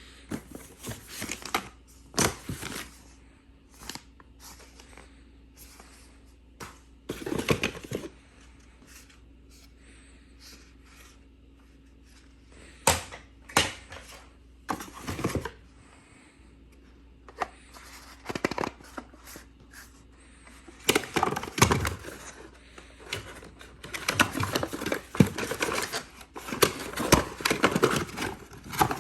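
Unboxing handling of a Dyson V15 vacuum's packaging and parts: scattered clicks, knocks and rustles, turning into near-continuous crinkling of packaging in the last several seconds.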